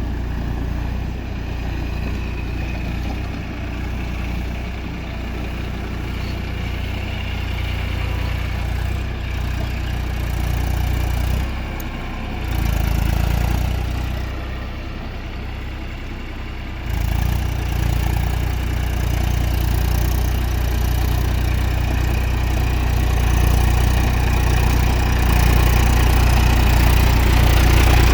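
Eicher tractor's diesel engine running steadily. It changes about twelve seconds in, runs quieter for a few seconds, then comes back louder from about seventeen seconds.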